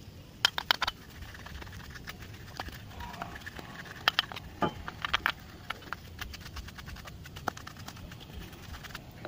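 Light clicks and taps of metal parts and hand tools being handled during rear brake caliper work: a quick cluster of clicks about half a second in, then scattered single taps.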